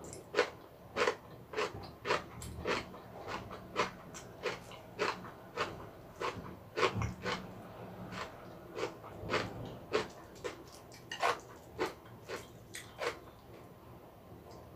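A person chewing food close to the microphone: a quick run of short, crisp chewing clicks, about two or three a second, thinning out near the end.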